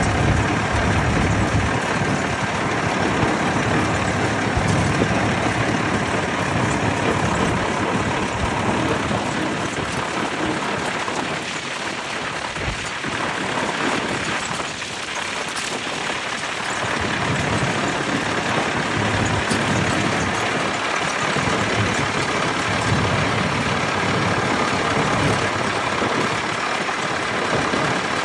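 Vintage tractor engines running, with a slight lull about halfway through.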